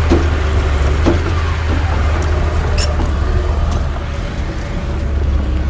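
Heavy diesel earthmoving machinery running with a steady low rumble, with scattered short metallic clanks and squeaks over it.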